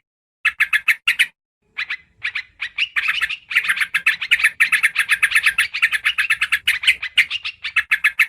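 Yellow-vented bulbul (trucukan) calling: rapid chattering runs of short bright notes, about eight a second, in bursts, with the longest run lasting several seconds in the middle. The calls are a bird-lure recording, with the gaps between bursts fully silent.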